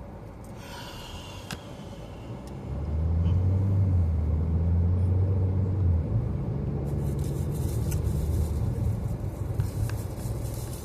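Low car rumble heard from inside the cabin. It swells suddenly about three seconds in, stays strong for a few seconds, then eases.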